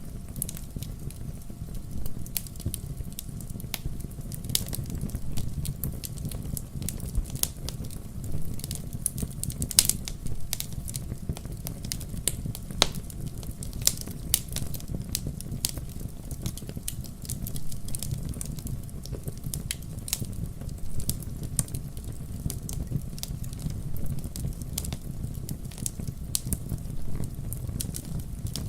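Wood fire in a fireplace crackling, with a steady low rumble of the flames under many irregular sharp pops and snaps, a few louder ones about ten and thirteen seconds in.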